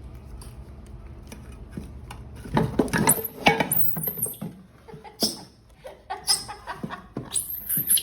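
Baby monkeys squabbling: a string of shrill, rising squeals with short scuffling knocks, starting about two and a half seconds in. Before that there is only a low steady hum.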